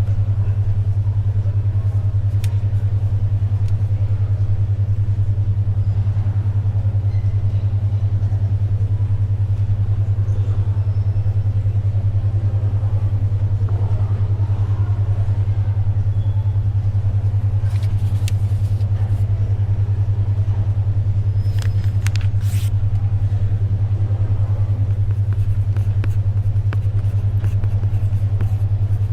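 Synthetic 10.2 Hz alpha brainwave tone: a loud, steady low hum near 100 Hz that pulses rapidly without a break. Beneath it runs faint library ambience, with a few brief papery rustles like pages turning past the middle.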